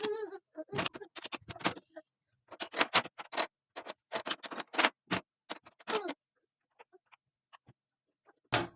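Irregular clicks, taps and knocks in quick clusters, the sound of household objects being handled, with a short squeaky pitched sound right at the start and a heavier knock near the end.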